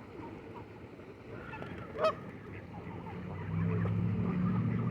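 Waterfowl calling, with one loud honk about two seconds in. A low, steady hum comes in about three and a half seconds in and stays.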